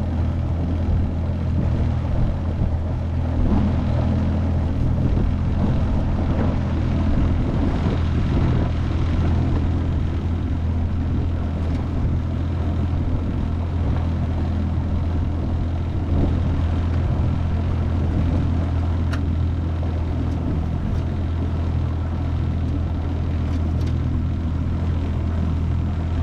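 25 hp Mercury four-stroke outboard motor running steadily at a constant speed with the boat under way, a low even hum with a steady hiss over it.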